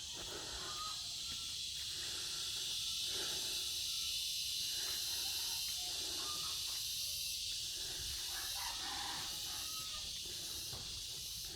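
Steady high-pitched hiss of an insect chorus, with a few faint short animal calls over it.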